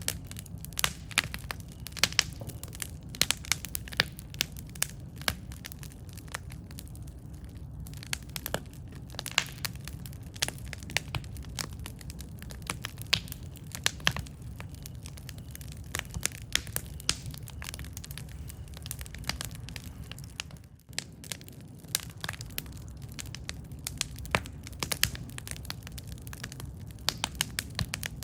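Campfire of burning wood crackling: many irregular sharp pops and snaps over a steady low rumble.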